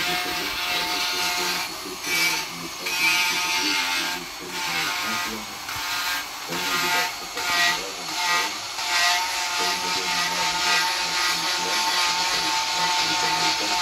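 Repeated scraping strokes of a hand tool on wood, coming irregularly about once or twice a second.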